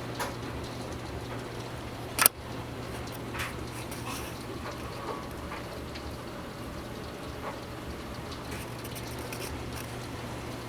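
Torrential rain falling, a steady hiss with scattered drip and splash ticks as it overwhelms the gutters. One sharp, louder tap comes a little over two seconds in.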